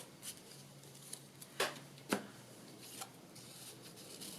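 Paper cards and craft pieces being handled on a work table: faint rustling with a few light taps, the two sharpest a little past one and a half seconds and at about two seconds.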